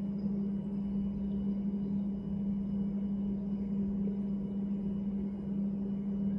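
Steady low-pitched hum over a rumbling noise, unchanging throughout.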